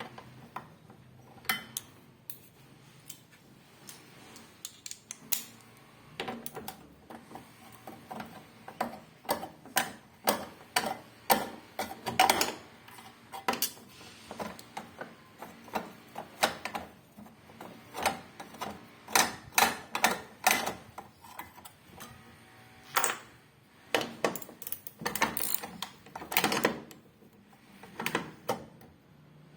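Irregular clicks, taps and clatter of hand tools and metal parts being handled while a washing machine is taken apart. The sharp knocks come in quick clusters, busiest from about ten seconds in.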